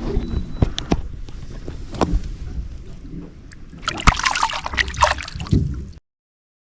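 Knocks and clatter on a small fishing boat, then a splash of water about four seconds in. The sound cuts out suddenly near the end.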